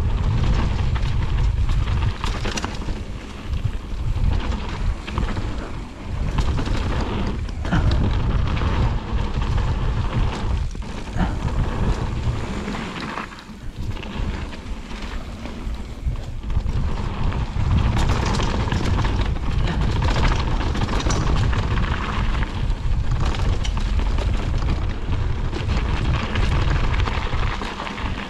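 Mountain bike riding down a dirt trail: wind rumbling on the microphone, with tyres on dirt and the bike rattling and knocking over bumps throughout.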